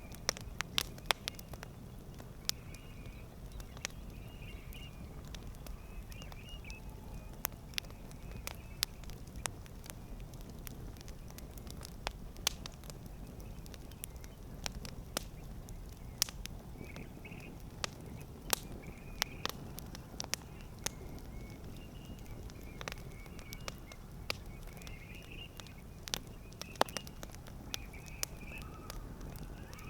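Campfire crackling: irregular sharp pops and snaps from the burning wood, several a second at times, over a steady low rumble of the flames.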